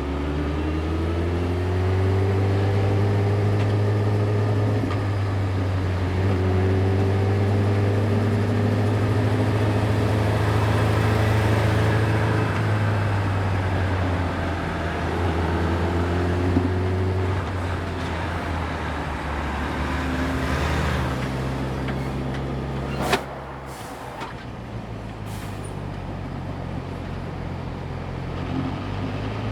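Yamaha YZF-R6's inline-four engine running under way, its pitch rising and levelling off in several stretches as it pulls. Over the last third it drops to a lower, quieter run, with one sharp click about 23 seconds in.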